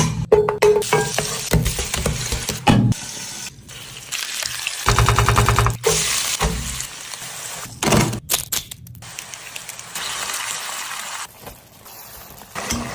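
A run of quick-cut cooking sounds: food sizzling as it fries in a pan, broken by sharp knocks and clatters, with the sound changing abruptly from one cut to the next.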